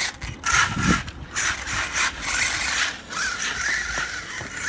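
Brushless Traxxas T-Maxx RC monster truck's motor and gear drivetrain whirring in short bursts of throttle, with brief rising whines, as the truck bogs down stuck in snow.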